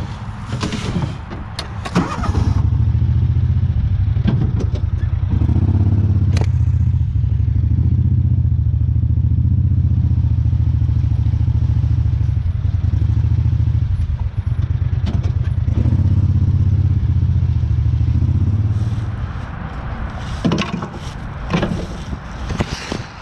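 A vehicle engine running steadily with a deep, low drone, coming up loud about two seconds in and dropping away about nineteen seconds in. Knocks and clatter come before and after it.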